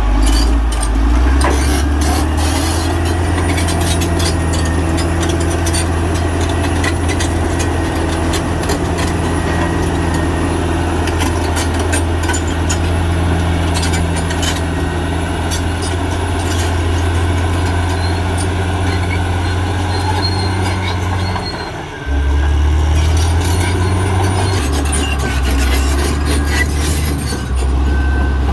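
Caterpillar D6R XL crawler bulldozer working, its diesel engine running under load with a deep steady rumble and the steel tracks clanking. The engine note drops briefly about three quarters of the way through, then picks up again.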